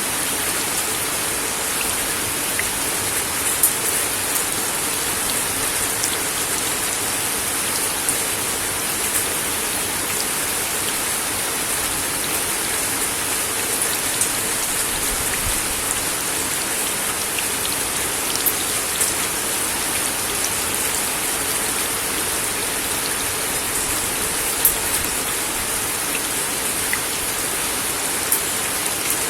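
Steady rain falling on a wooden deck, a constant hiss dotted with sharper drips and drop ticks.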